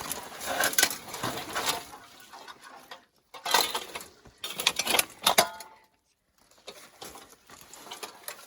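Thin pieces of scrap aluminium from the crashed jet's wreckage clinking and clattering in bursts of sharp knocks, as they are stepped on or handled.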